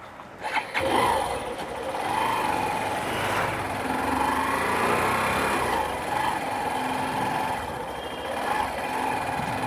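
A motorcycle engine comes in with a few sharp clicks about half a second in, then runs steadily as the bike moves off.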